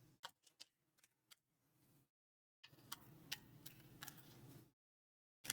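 Near silence with a few faint, scattered clicks and taps from cards being handled and laid out on a table.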